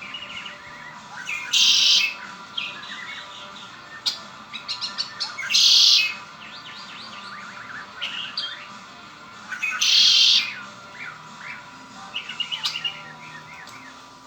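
Red-winged blackbird singing: three songs about four seconds apart, each a few short notes leading into a loud buzzy trill. Softer chirps come between the songs.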